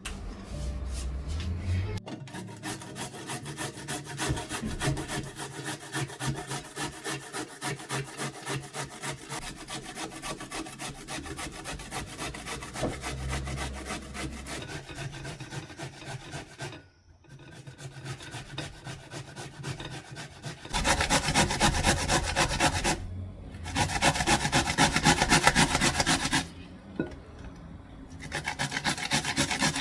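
Rapid, rhythmic rasping strokes from something rubbed back and forth by hand, growing louder in three stretches in the second half.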